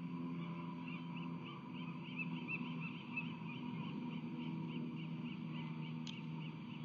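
Osprey calling, a steady series of short high chirps at about four a second, over a steady low hum. A single sharp click sounds near the end.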